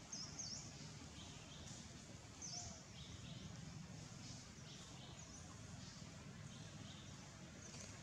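Quiet forest ambience with a handful of short, high-pitched bird chirps scattered through it.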